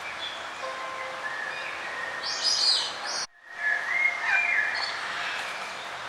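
Several songbirds singing and calling over a steady background hiss, with a loud, high chirping phrase a little past two seconds. A little past three seconds the sound cuts out briefly to near silence, then the birdsong resumes.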